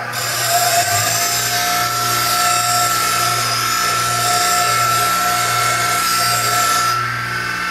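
Electric grinder running steadily while a woodturning gouge is sharpened on it, with a dense grinding hiss over the motor's hum. The hiss eases off about seven seconds in as the tool comes off the wheel, while the motor keeps running.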